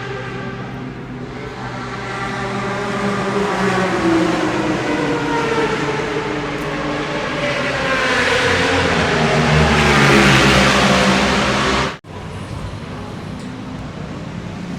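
Two-stroke racing motorcycle engine revving, its pitch rising and falling and loudest about ten seconds in. Near the end the sound cuts off abruptly and gives way to a steadier engine sound.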